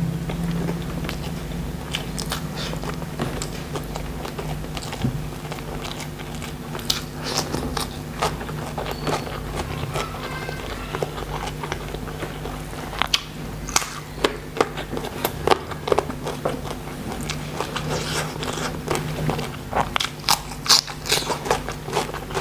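Close-up chewing and biting of shrimp and raw vegetables, with wet mouth sounds and sharp crunches that come louder and more often in the second half.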